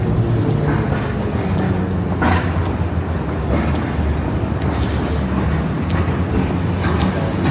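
A steady low rumble with a low hum, like an engine or machinery running.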